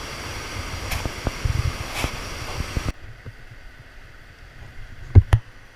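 Rushing river water with wind on the microphone and scattered knocks. About three seconds in the sound drops away abruptly to a low rumble, and two loud thumps come near the end.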